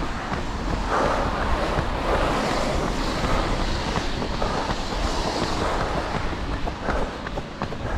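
Wind rumbling and buffeting on the microphone of a camera carried by a runner, a steady low rumble under a shifting hiss, with a few faint footfalls near the end.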